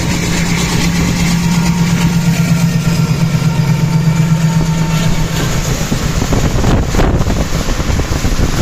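Goods train running, heard as a loud, steady low drone with rumbling noise. After about six seconds the drone fades, and a rougher rumble follows with gusts of wind on the microphone.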